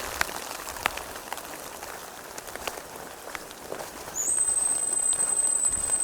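Rain falling in woods, with scattered sharp drip taps. About four seconds in, a steady high-pitched whine starts with a short upward slide and then holds.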